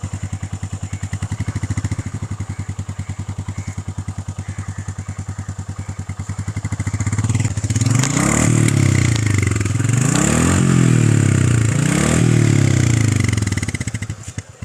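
A single-cylinder motorcycle engine idles with an even, rapid thumping pulse. From about seven seconds in it is revved up and let fall back three times, then it stops near the end.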